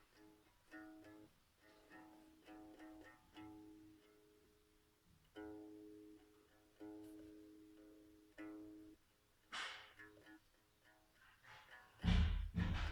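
Homemade one-string ukulele plucked in single notes, mostly repeating one low pitch with a few other notes, each ringing on briefly. Near the end a loud, deep thump cuts in, and a shorter noisy burst comes a couple of seconds before it.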